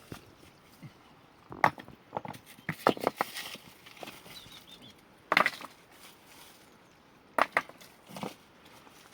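Irregular sharp knocks and clatters, some single and some in quick clusters, spread a second or two apart.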